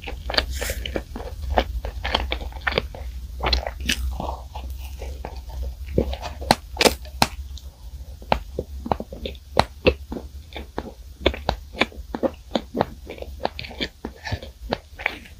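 Close-miked chewing of a crisp-crusted bread bun: a run of small, irregular crunches and clicks, several a second.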